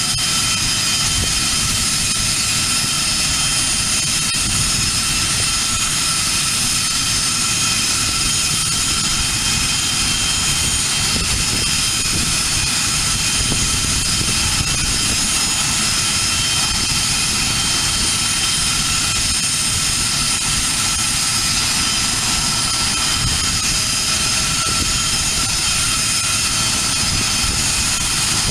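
Learjet's jet engines idling on the ground: a steady high-pitched whine made of several held tones over an even rush, with no change in power.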